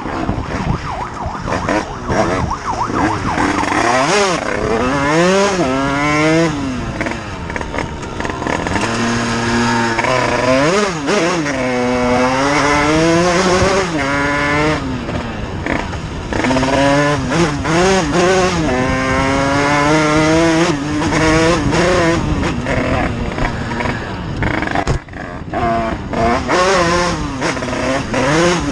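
Motorcycle engine accelerating hard through the gears: its pitch climbs, drops at each gear change and climbs again, over and over, with a lull in the middle.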